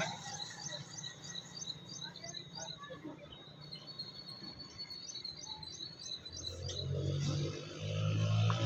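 A bird chirps in quick runs of short, high, evenly repeated notes, about four a second. From about two-thirds of the way in, an engine's low hum grows louder.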